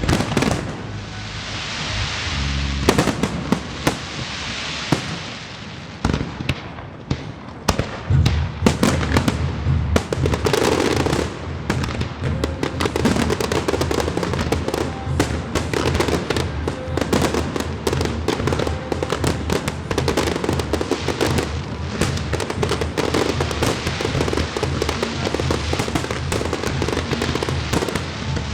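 Aerial fireworks bursting in quick succession, many sharp bangs and crackles, over the show's music with a steady bass line. A stretch of crackling hiss comes in the first few seconds, then a dense barrage begins about eight seconds in.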